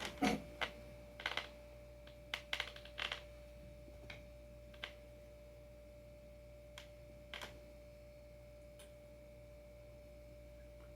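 Light metallic clicks and taps of a wrench and bolts being handled while a longboard's truck bolts are worked loose, coming in quick clusters for the first few seconds and then only now and then, over a faint steady hum.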